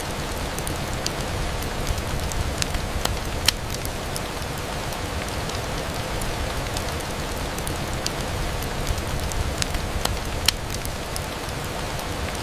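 Steady rain on a window pane, with scattered sharp ticks of drops or crackles. Two louder cracks come about three and a half seconds in and again near ten and a half seconds.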